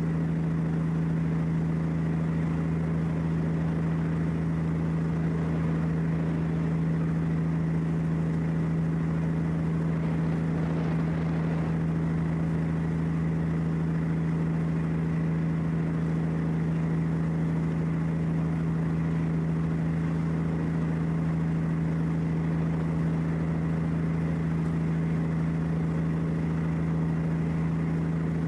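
An engine running steadily at idle, a constant low drone that does not change.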